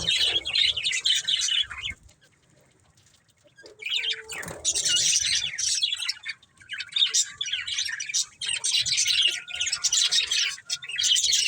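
A pair of budgerigars chattering in rapid, high-pitched chirps and warbles. They fall quiet for a moment about two seconds in, then start up again.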